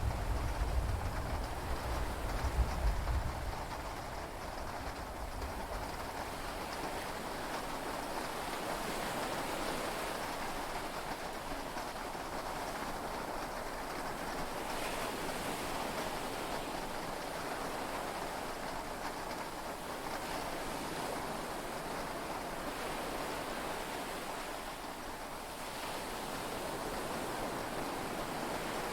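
Heavy rain and sea waves heard from inside a yacht cabin as a steady rushing hiss. A low rumble of thunder dies away in the first few seconds.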